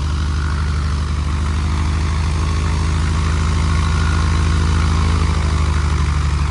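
1948 Cessna 170's six-cylinder Continental aircraft engine idling steadily with an even, good-sounding idle, its level creeping up slightly in the second half.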